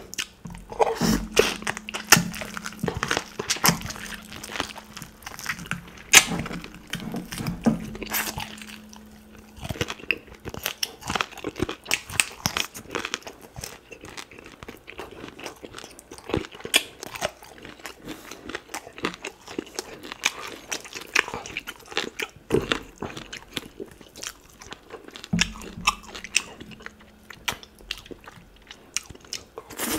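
Close-miked ASMR eating sounds: biting, chewing and crunching of duck meat and bone, with many sharp wet clicks and smacks. A low steady hum sounds for several seconds near the start and again near the end.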